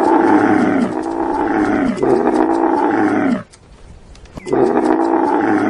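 Lion roaring: a run of long, loud calls that each fall in pitch. It breaks off about three and a half seconds in and starts again about a second later.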